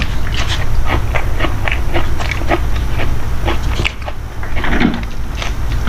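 A person chewing food with the mouth open: a run of short, wet clicks, about four or five a second, with a brief pause near the middle, over a steady low hum.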